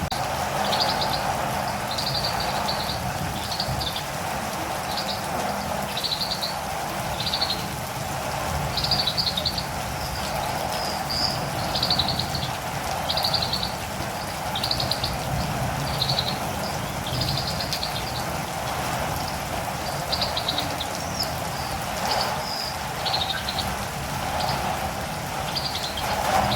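Catirumbava (olive-green tanager) calling: short, high, trilled chirps repeated about once a second, over a steady hiss of rain.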